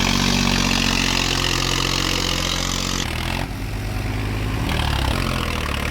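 Tractor diesel engine running steadily; about three seconds in the engine note changes and a lower, pulsing engine sound takes over.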